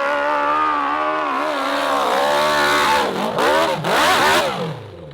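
Motocross bike engine running at high revs, its pitch wavering with the throttle, then blipped up and down in a few sharp revs in the second half before it falls away near the end.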